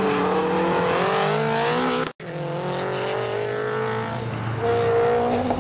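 Opel Kadett C coupé's engine revving hard under a slalom run, its pitch climbing and falling repeatedly as the driver accelerates and lifts between cones. The sound cuts out for a moment about two seconds in.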